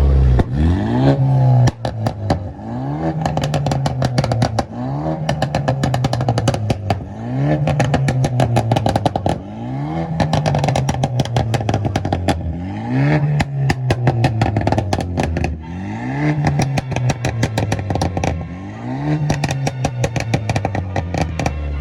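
Performance car engine revved hard again and again, about once every second and a half, the pitch climbing and dropping each time. Rapid exhaust pops and crackles run through the whole run of revs.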